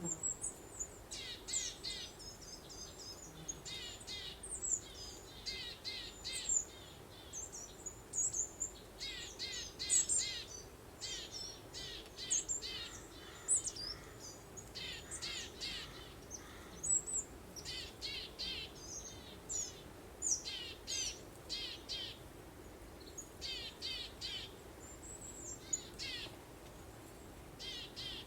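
Songbirds chirping and trilling in quick clusters of short high notes, a burst every second or two with short pauses, over a faint steady background hiss.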